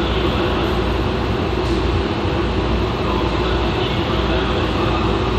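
E2 series Shinkansen running at a steady speed, heard from the deck between cars: a steady rumble of wheels, running gear and air noise that neither rises nor falls.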